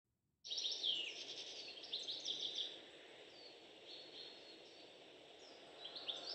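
Songbirds singing in quick chirping phrases with falling trills over a steady soft rushing hiss. The song starts about half a second in, is loudest in the first two seconds, and softens in the middle.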